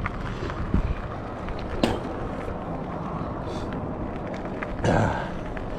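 Rad Rover electric bike riding along: steady wind rush on the microphone with road rumble, a few sharp clicks, and a short louder rush near the end.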